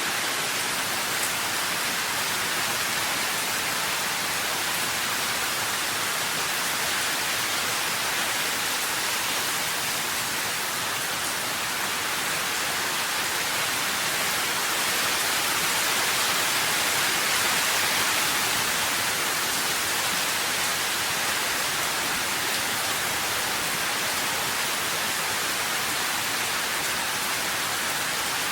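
Steady rain, an even hiss with no separate drops standing out, swelling slightly about two-thirds of the way through.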